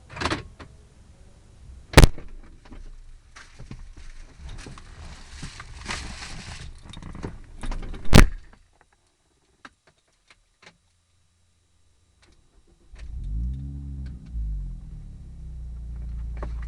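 Sharp knocks and rustling clatter, then a few seconds of quiet; about thirteen seconds in, the Hartge-tuned MINI's engine starts through its Hayward & Scott exhaust, flares briefly and settles to a steady low idle.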